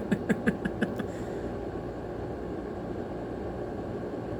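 A man's voice in the first second, then a steady low rushing noise with no distinct events.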